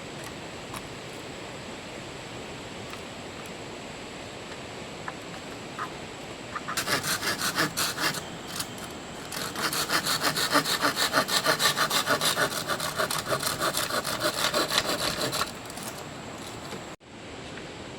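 Hand saw cutting wood in quick, even strokes, about four a second, in two runs with a short pause between. Under it runs the steady hiss of heavy rain.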